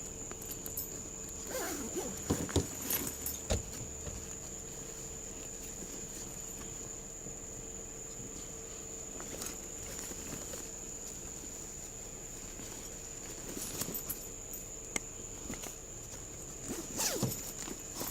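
Scattered rustling and clicking handling noises, with a few short squeaky sweeps, over a faint steady high whine and hum.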